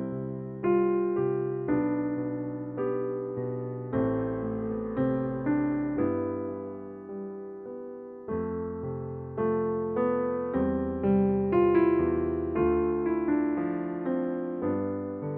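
Soft electric piano music: slow chords and single notes, each struck and left to fade.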